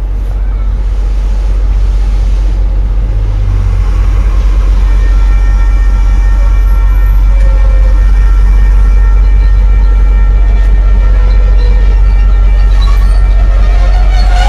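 Train passing close by, a heavy low rumble that overloads the microphone and grows louder. Steady tones above the rumble strengthen near the end.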